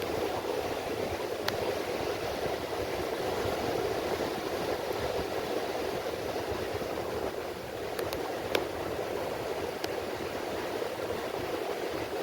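Rain falling on the sea: a steady wash of water noise, with a few sharp ticks here and there.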